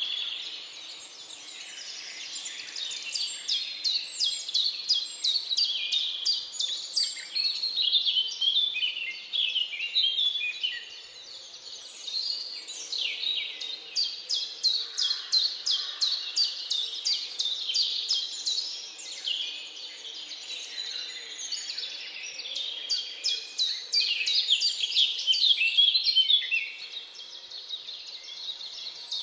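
A chorus of several songbirds singing over one another, with quick runs of repeated short notes and brief lulls between bouts.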